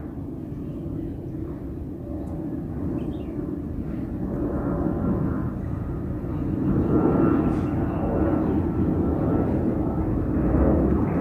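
Boeing 717's two Rolls-Royce BR715 turbofan engines at takeoff power as the jet climbs out. A steady jet roar that grows gradually louder as the aircraft approaches.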